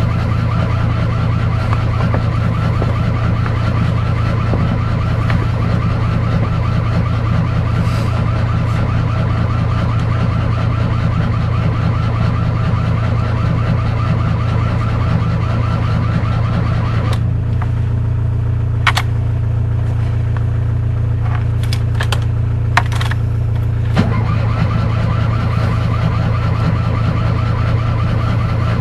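Fiat 126's air-cooled two-cylinder engine running steadily. A little past the middle its sound thins out for several seconds, with a few sharp clicks, then comes back full.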